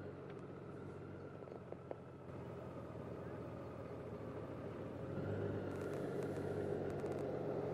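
Honda Gold Wing's flat-six engine running steadily at low revs as the big touring motorcycle is ridden at walking pace through a tight figure-eight, growing a little louder about five seconds in.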